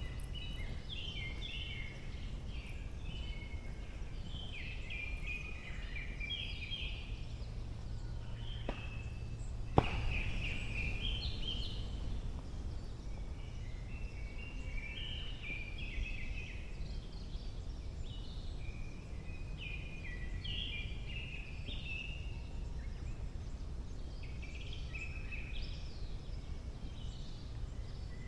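Songbirds singing in a spring forest, with song phrases repeating one after another throughout, over a steady low background rumble. A single sharp click sounds about ten seconds in.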